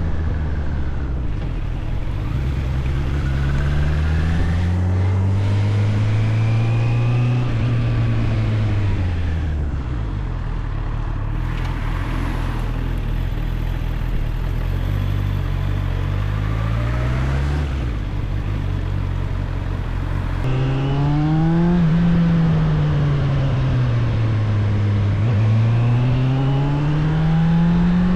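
Suzuki GSF 600 Bandit's inline four-cylinder engine under way, the revs rising and falling several times as the bike accelerates and eases off.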